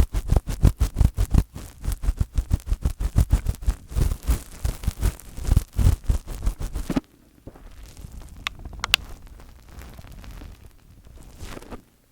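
Fingers rubbing and tapping directly on an ASMR microphone: rapid strokes, several a second, each with a deep thump. About seven seconds in it turns to softer scratching with a couple of sharp clicks.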